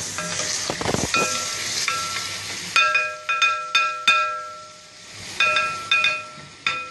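Chicken sizzling in hot sunflower oil in a metal frying pan, then a utensil striking the pan about nine times in two quick runs. Every strike rings the same metallic note.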